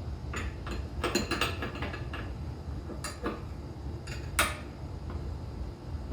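Metal hand tools clinking and clanking against steel fittings as rusted fasteners are worked loose: a handful of scattered sharp clicks, with one louder clank about four and a half seconds in, over a steady low rumble.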